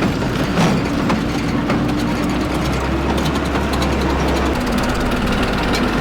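1950s truck engine running with a steady low hum and rapid clicking and rattling; the hum changes about four and a half seconds in.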